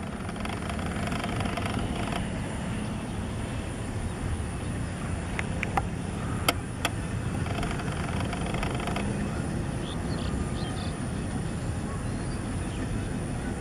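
Steady low rumble of a distant diesel-hauled commuter train approaching, with faint voices and a few sharp clicks about six seconds in.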